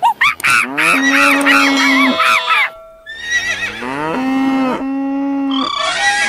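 Cow mooing several times in long, held calls, mixed with other animal calls, including short rising squeaks at the start.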